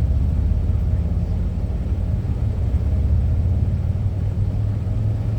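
Steady low drone of a semi truck's engine and road noise, heard inside the cab while driving.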